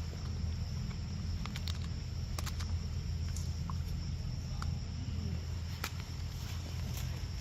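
Insects droning in one steady high note over a low background rumble, with scattered faint clicks and ticks.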